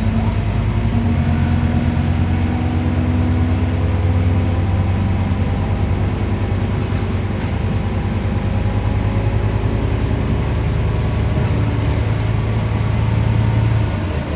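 Scania CN270UB city bus engine running steadily under way, with tyre and road noise. Near the end the engine note drops away as the bus eases off.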